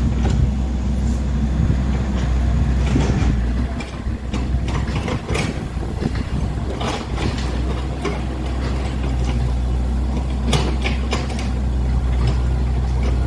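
Dump truck engine running steadily, with scattered short clicks and hisses over it.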